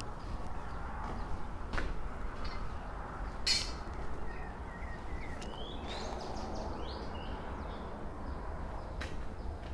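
Birds chirping over a steady low outdoor rumble, with a few short sharp sounds, the loudest about three and a half seconds in.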